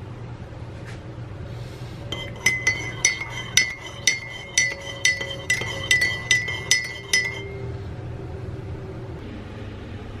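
A spoon stirring coffee with cream and stevia, clinking rapidly against the inside of a glass or mug, about three ringing clinks a second for some five seconds, starting about two seconds in.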